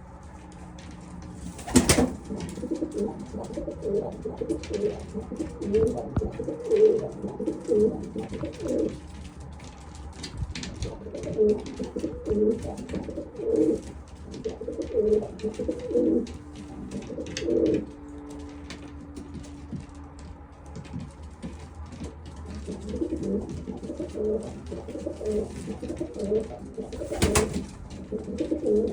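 Several homing pigeons cooing over and over in a loft, the courtship and nest-calling coos of breeding pairs, with a couple of short lulls. A sharp knock or clap sounds about two seconds in and again near the end.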